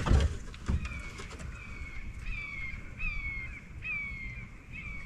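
A bird calling over and over, about six short, clear calls, each falling slightly in pitch, under a second apart. A couple of sharp knocks at the start are louder than the calls.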